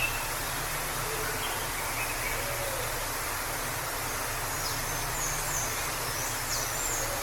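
Steady rushing of a forest waterfall, with a few birds calling faintly over it and a run of short high chirps in the second half.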